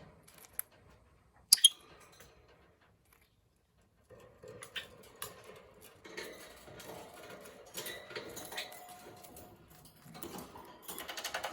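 Rosy-faced lovebird nibbling and biting with its beak: scattered small clicks and scratchy rustling, with one loud sharp click about a second and a half in. Near the end the clicks turn into a rapid, even ticking.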